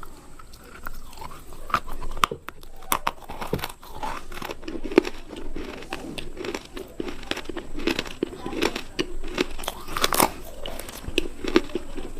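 Close-miked crunchy eating: sharp bites and crunches, then steady rhythmic chewing from about four seconds in.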